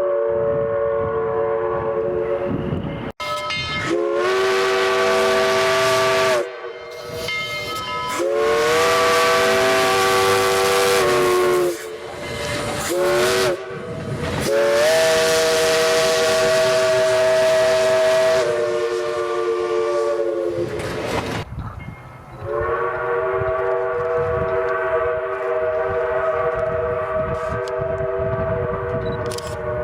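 Steam locomotive chime whistle sounding several notes at once over a hiss of steam. One blast cuts off abruptly about three seconds in. Then comes a long, long, short, long sequence, the grade-crossing signal, with the last long blast sagging in pitch before it stops. Another long chime blast follows near the end.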